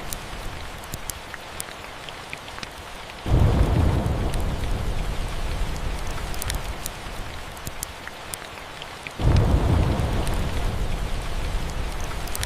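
Steady rain with two rolls of thunder, the first breaking suddenly about three seconds in and the second about nine seconds in, each a deep rumble fading over a few seconds. Scattered faint crackles of a fireplace run through it.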